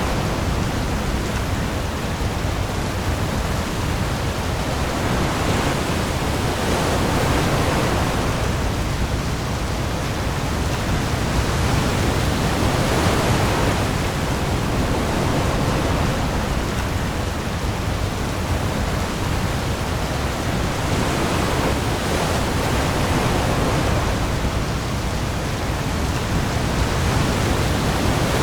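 Heavy rain pouring onto the sea surface with waves: a dense, steady hiss that swells and eases every several seconds, over a deep low rumble.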